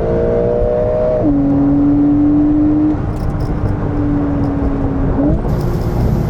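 Tuned Porsche 992 Carrera S twin-turbo flat-six pulling under acceleration: its note climbs, drops sharply at an upshift about a second in, then holds a steady drone before rising briefly again near the end.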